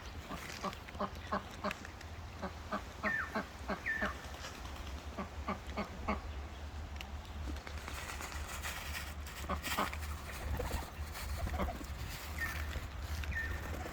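Ducks quacking as they crowd in to feed, a quick run of short calls, about three a second, through the first half, then scattered calls. Small birds chirp a few times over the top, with a steady low rumble underneath.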